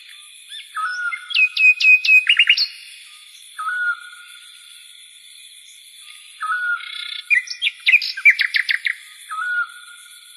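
A bird calling: a short whistled note that recurs every three seconds or so, and twice a quick run of sharp, high chirps.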